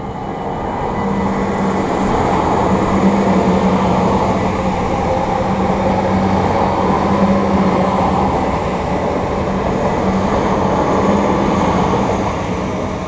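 A yellow Dutch passenger multiple-unit train passing over a level crossing close by. It builds up over the first two seconds, holds steady, then eases off near the end, with a steady low drone under the rush of the wheels.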